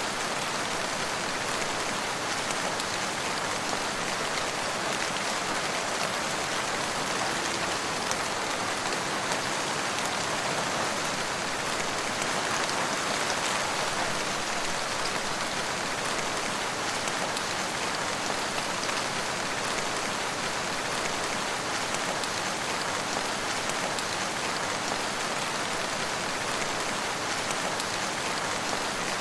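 Steady rain falling on surfaces, an even hiss with fine pattering drops.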